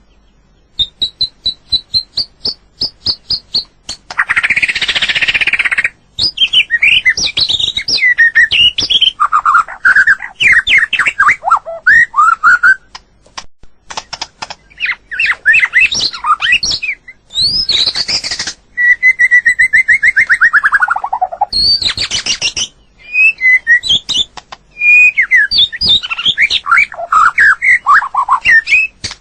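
White-rumped shama singing: a varied run of clear whistled phrases, quick trills and sweeping glides, broken by a few short harsh, rasping notes.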